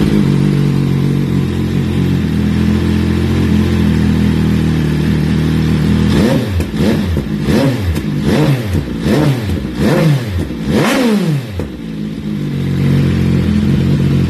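MV Agusta Brutale 800's three-cylinder engine, breathing through a full titanium exhaust, running at idle. About six seconds in it is blipped through a quick run of short revs, each rising and falling back, then settles back to a steady idle.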